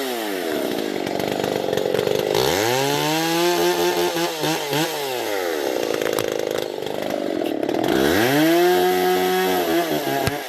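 Stihl MSA 220C battery chainsaw, its motor speeding up to full speed and slowing down twice.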